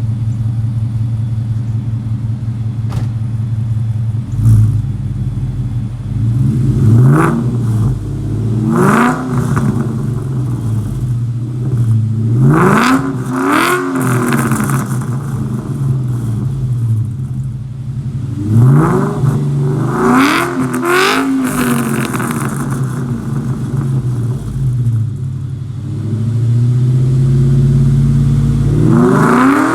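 Ford Coyote 5.0 V8 running through Hooker Blackheart long-tube headers and a 3-inch Hooker exhaust. It idles steadily and is revved again and again in short blips, each one climbing in pitch and dropping back to idle.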